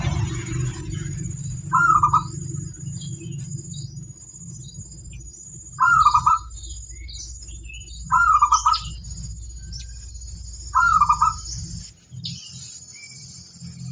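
Zebra dove (perkutut) cooing: four short rolling coo phrases a few seconds apart, with faint high chirps of small birds and a steady low hum behind.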